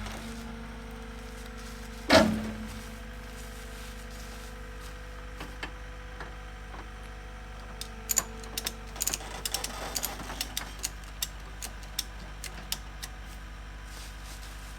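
A loud knock or clank about two seconds in, then a run of irregular sharp clicks and ticks, over a steady low hum.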